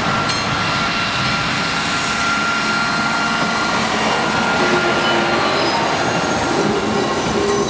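Passenger train passing close by over a level crossing: a loud steady rush and rumble of wheels on rail, with a thin steady high-pitched tone running through it.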